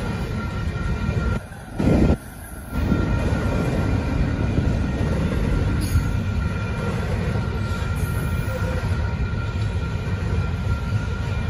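Double-stack intermodal freight train rolling past, a steady rumble of wheels on rail with a thin steady high tone above it. The level dips briefly about two seconds in.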